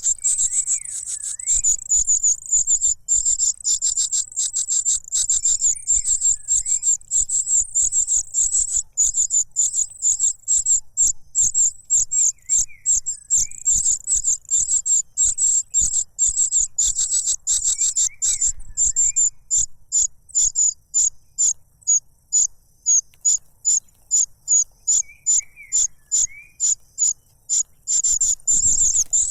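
Young cuckoo begging for food: a loud, very high, rapid chittering call, continuous at first, then breaking into quick separate pulses about three a second in the second half. Faint short lower chirps recur every few seconds.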